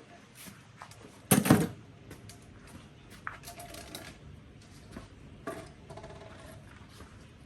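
Scattered light clicks and knocks, like small hard objects being handled, with one louder clattering knock about one and a half seconds in.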